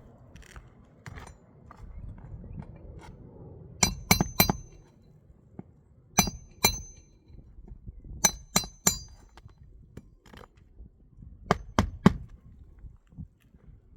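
Hammer striking metal on the roof in quick groups of two to four ringing blows, with pauses between the groups, typical of work on roofing nails during a shingle repair.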